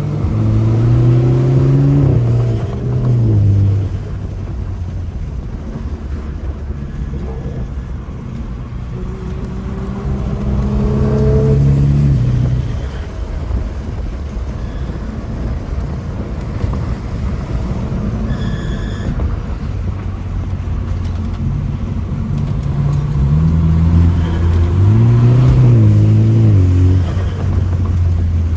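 BMW F30 328i's turbocharged four-cylinder engine pulling hard in three bursts, its pitch climbing and dropping through the revs, with steadier running between the pulls.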